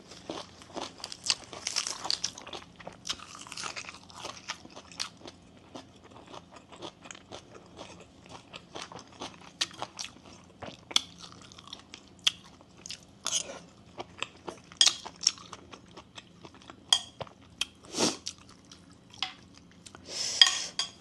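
A person chewing and crunching bamboo-shoot soup with sticky rice, close up, in irregular mouth clicks and crunches. A longer, louder crunch comes near the end.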